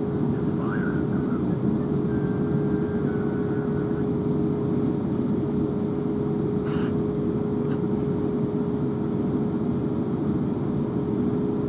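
Interior of a Class 444 Siemens Desiro electric multiple unit under way: a steady rumble from the running train with a constant hum, and a brief high hiss about seven seconds in.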